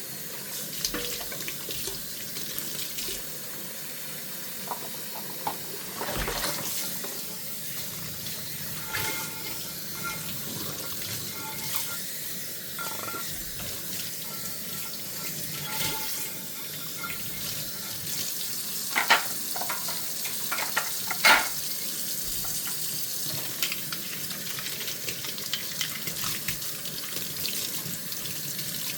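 Tap water running steadily into a kitchen sink during hand dishwashing, with scattered clinks and knocks of dishes. Two sharper knocks come about two-thirds of the way through.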